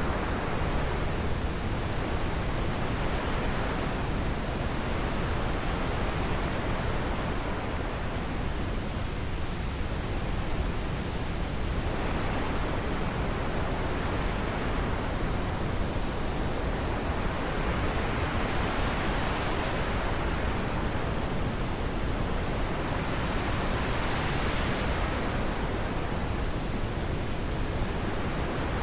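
Wind blowing as a steady rush of noise, swelling and easing in slow gusts every few seconds.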